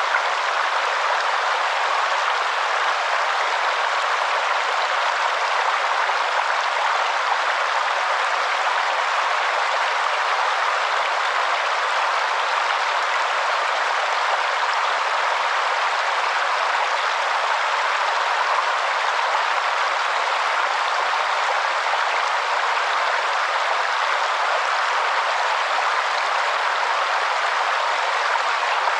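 Waterfall: a steady, unbroken rush of falling water, with no deep rumble.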